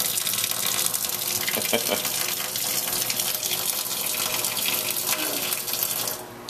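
Water running steadily from a tap, shut off abruptly about six seconds in.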